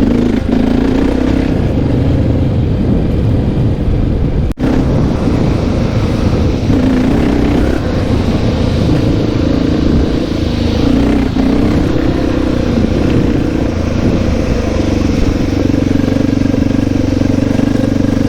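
Honda XR650R's single-cylinder four-stroke engine running at a fairly steady pitch as the motorcycle is ridden, with a brief dropout about four and a half seconds in.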